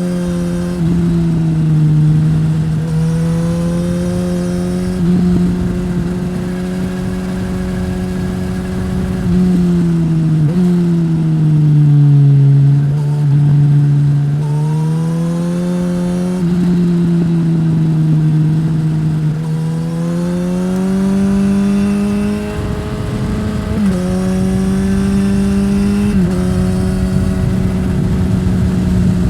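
2015 Suzuki GSX-S1000 inline-four engine breathing through a Yoshimura R-11 slip-on exhaust while riding, its note rising and falling with the throttle. About ten seconds in it eases off and the pitch sinks slowly, then climbs back as it pulls again. Several short, sudden drops in pitch come with upshifts.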